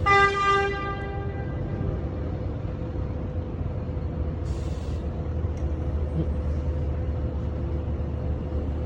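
A vehicle horn honks once for about a second and a half, over the low steady rumble of idling traffic. A short hiss comes about four and a half seconds in.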